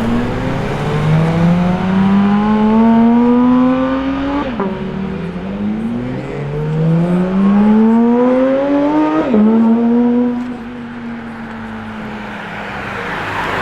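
A Porsche accelerating away through the gears. The engine note climbs steadily, drops at an upshift about four and a half seconds in, climbs again to a second upshift about nine seconds in, then settles and fades as the car moves off.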